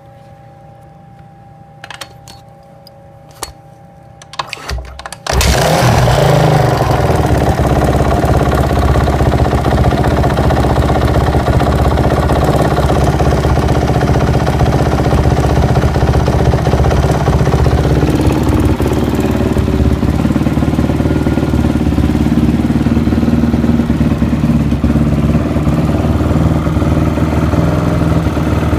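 2005 Honda CRF450R's single-cylinder four-stroke engine, started from ice cold: a few sharp knocks, then about five seconds in it fires and keeps running steadily.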